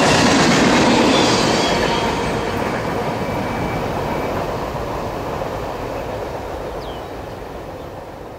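Freight train's last railcars rolling past on steel wheels, a steady clatter and rumble that fades out gradually as the end of the train goes by.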